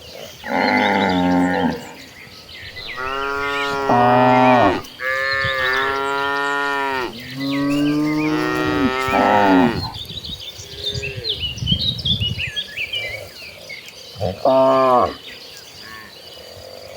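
Cattle of a herd mooing: four long moos one after another, then a shorter one near the end, with insects or birds chirping faintly in the pauses.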